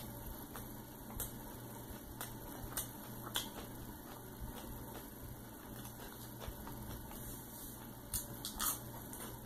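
Close-up chewing and wet mouth clicks from someone eating a cheeseburger, with a few louder crunches of lettuce near the end, over a steady low hum.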